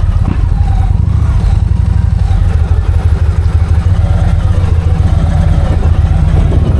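Victory motorcycle's V-twin engine idling, a loud, steady, rapid low pulsing rumble.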